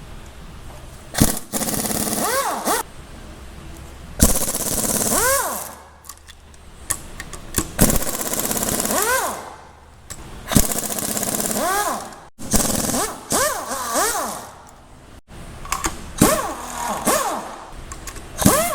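Power tool on the engine's fasteners, most likely a cordless impact wrench, run in about eight short bursts of a second or two. Each burst starts sharply, and the motor whine rises and falls in pitch.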